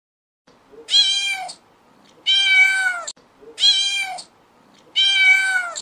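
Domestic cat meowing four times, a little over a second apart. Each meow is a drawn-out call that drops slightly in pitch at the end.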